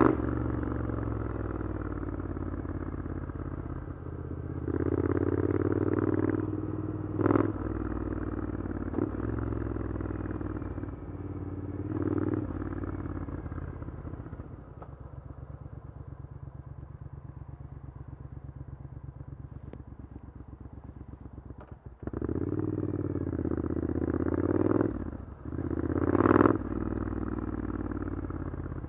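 Triumph Scrambler 900's parallel-twin engine through an Arrow exhaust under way in town: the throttle opens and eases off in bursts with rising revs. It runs quieter and steady for several seconds in the middle, then pulls hard again with two rising revs near the end.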